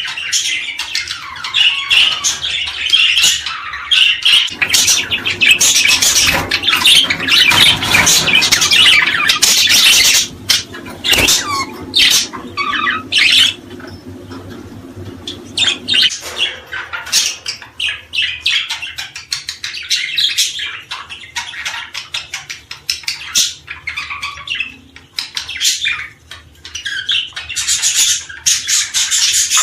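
Many small birds chirping and squawking together in a dense, busy chatter. It is thickest through the first half, thins out briefly about halfway, then builds up again.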